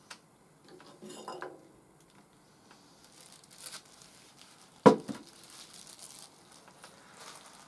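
Unpacking and handling noises: a short rattle about a second in, rustling of packing material, and one sharp knock with a brief ring about five seconds in, the loudest sound.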